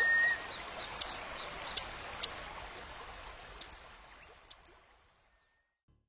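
Wetland ambience: a steady hiss with a few short scattered bird chirps, fading out to silence about five seconds in. A held high whistling note cuts off just after the start.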